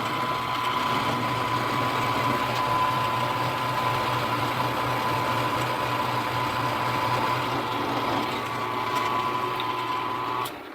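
Milling machine running steadily with a constant whine and hum, cutting the profile on a rotary-table setup; it shuts off just before the end.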